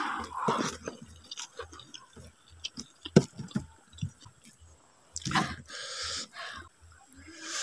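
Close-up mouth sounds of a person chewing a mouthful of rice with vegetables: irregular wet smacks and clicks, with a sharp click about three seconds in and a longer, louder noise from about five seconds in.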